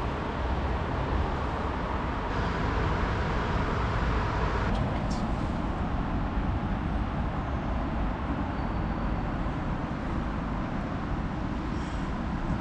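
Steady urban traffic noise: a continuous low rumble of passing vehicles, with a brief high-pitched sound about five seconds in.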